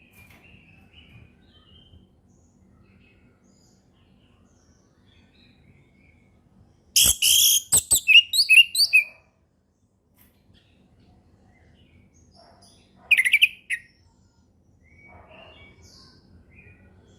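Orange-headed thrush singing. Faint scattered notes give way to a loud two-second run of quick notes about seven seconds in, starting with a few sharp clicks, and a shorter loud phrase follows about six seconds later.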